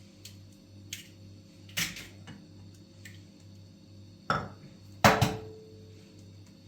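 A few knocks and clatters of objects being handled. The loudest, about five seconds in, is a metallic clank that rings briefly. A steady low hum runs underneath.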